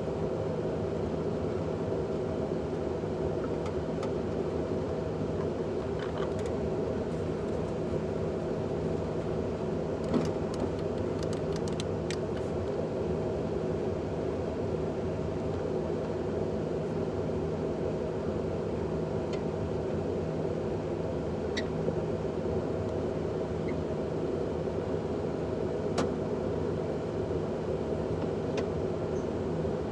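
A vehicle running at a steady speed, a constant hum with a few light clicks.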